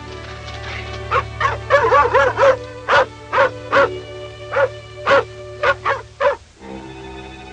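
A dog barking in a rapid run of short, sharp barks, about two a second, over orchestral film score. The barking is the dog's alarm, come to fetch its master to a companion in trouble.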